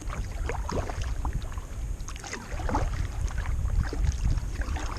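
Kayak paddle strokes splashing and dripping in the water, with wind rumbling on the microphone.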